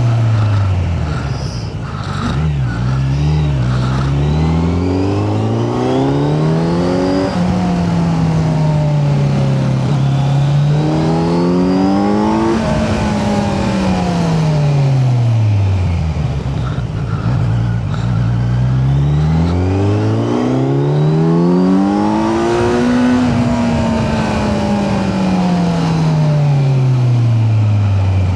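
Kawasaki Z900's inline-four engine under a rider's throttle, the revs climbing and falling several times, each rise taking a few seconds before the revs drop away again.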